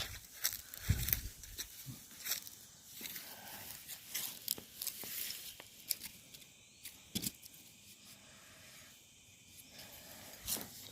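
Footsteps on a woodland floor: light, irregular crackles and snaps of dry leaves and twigs underfoot.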